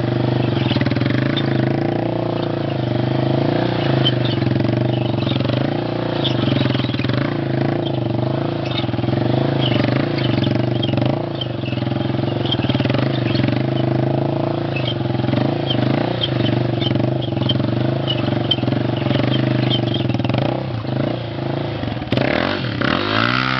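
Yamaha motorcycle engine running at steady, held revs while the bike rides a long wheelie, the pitch wavering slightly with the throttle. Near the end the revs dip and climb again.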